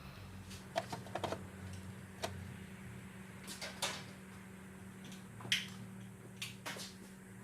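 Scattered light clicks and knocks, like tools and parts being handled in a repair shop, over a steady low electrical hum. The strongest click comes about two-thirds of the way through.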